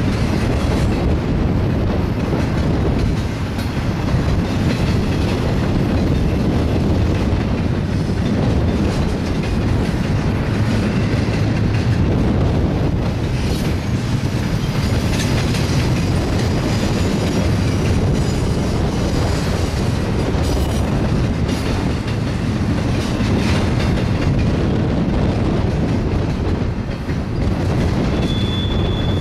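Double-stack intermodal well cars of a BNSF freight train rolling past: a loud, steady rumble of steel wheels on rail with scattered clicks as the wheels cross rail joints. A thin, high wheel squeal starts near the end.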